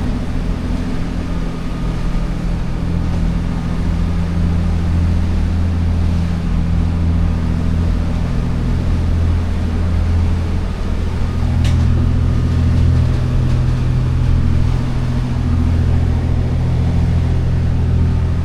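A motor yacht's diesel engines running steadily under way, a low, even drone. A single brief click sounds about twelve seconds in.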